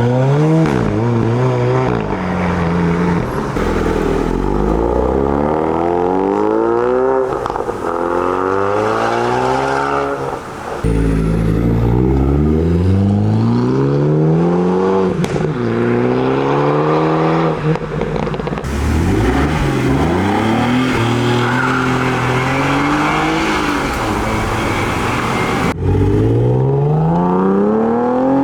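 Performance car engines accelerating hard away, the engine note climbing and dropping back again and again as they shift up through the gears. The sound changes abruptly a few times.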